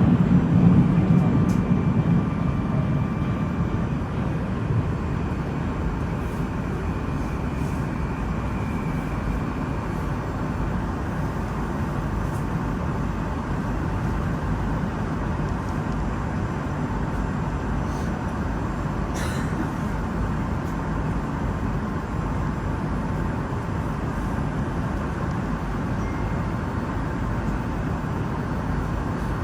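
Moscow Metro train running between stations, heard from inside the carriage: a steady rumble that is louder in the first few seconds and then settles.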